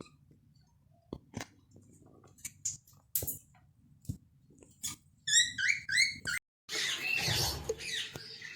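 Lovebirds in their cage: scattered clicks and taps, then a quick run of short chirps about five seconds in, followed by a scratchy rustling near the end.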